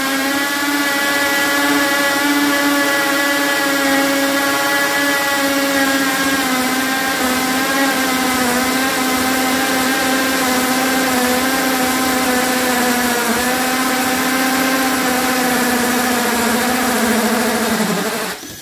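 Hammer drill running steadily under load as a 2-1/8 inch hole saw bores a doorknob hole through wood, a loud motor whine with a high hiss. Near the end the whine drops in pitch and stops.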